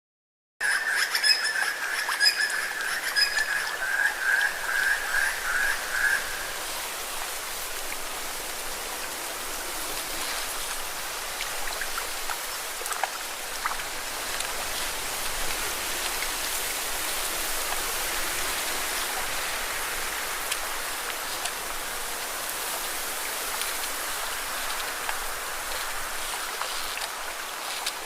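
Lake waves washing against rocks, a steady hiss of water with small splashes, cutting in abruptly about half a second in. For the first six seconds or so, a high, pulsing animal trill sounds over the water.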